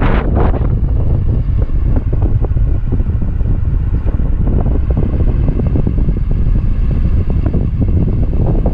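A motor running steadily under heavy wind buffeting on the microphone.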